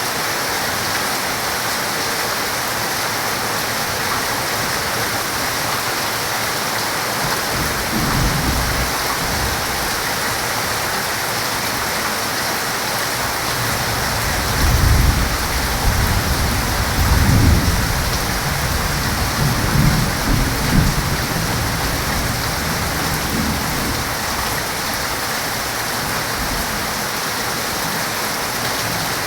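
Heavy rain falling in a steady hiss, with thunder rolling: a low rumble about eight seconds in, then a longer, louder roll from about fourteen to twenty-one seconds in.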